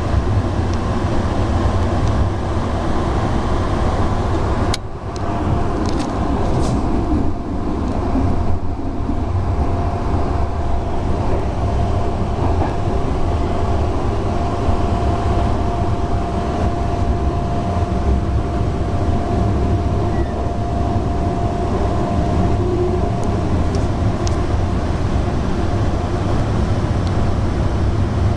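Steady rumble of a moving EuroCity passenger train heard from inside the coach. There is a brief dip and a sharp click about five seconds in, and a faint steady whine runs for about fifteen seconds in the middle.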